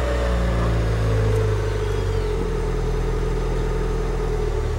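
Car engine running steadily after a restart, its note settling slightly lower about two seconds in. It is running normally again now that power to the electric fuel pump has been restored.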